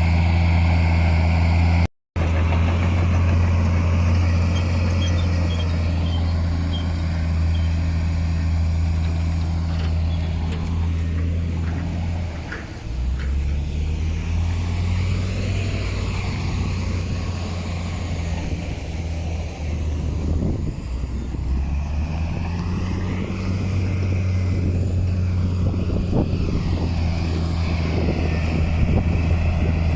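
Heavy diesel engine of earthmoving machinery running steadily under load. The sound cuts out for a moment about two seconds in, the engine note drops about halfway through, and it rises again a few seconds before the end.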